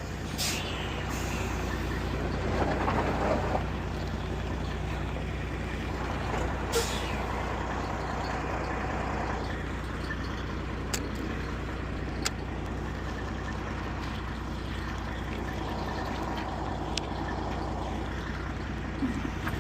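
Heavy truck's diesel engine running steadily at low revs while it manoeuvres, with two short air-brake hisses, one near the start and one about seven seconds in.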